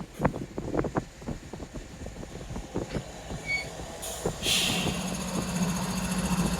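Loaded coal cars rolling slowly, their wheels clicking and knocking irregularly over the rail joints. About four seconds in comes a brief hiss, then the steady hum of the rear diesel locomotive's engine, growing louder as it comes closer.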